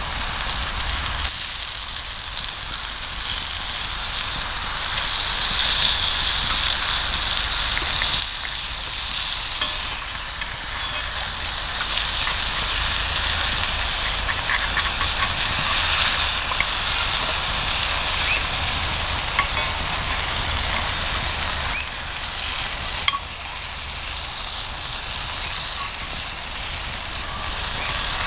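Food sizzling and frying in a cast-iron skillet over a campfire: a steady high hiss with scattered small pops and crackles.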